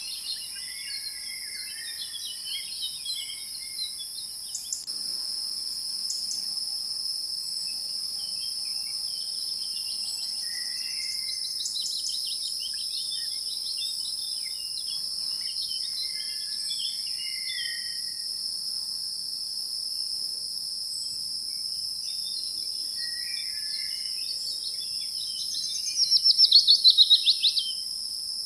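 Nature ambience: a steady high-pitched drone of crickets or other insects with scattered short bird chirps and calls. Near the end a loud, rapid stuttering trill rises over it for about a second and a half.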